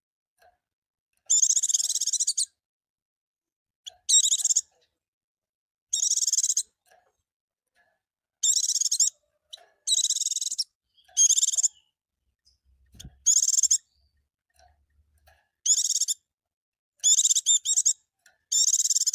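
White-eye (pleci) singing: about ten short, high, rapid twittering phrases, each half a second to a second long, with gaps of about a second between them.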